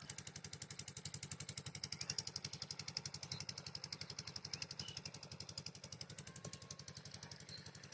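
An 8 HP single-cylinder diesel engine driving a water pump, running steadily with a rapid, even chugging beat.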